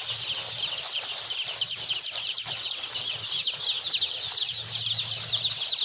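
A crowd of baby chicks peeping together: many short, high, downward-sliding cheeps overlapping in a dense, continuous chorus.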